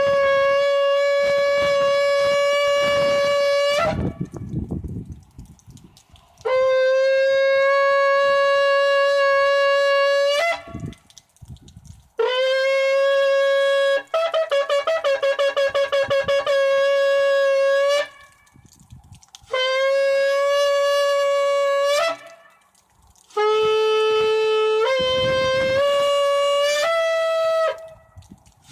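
A shofar blown in a series of loud, steady blasts of a few seconds each, with short pauses between. One blast wavers in rapid pulses, and the last is broken into short notes that step up and down in pitch.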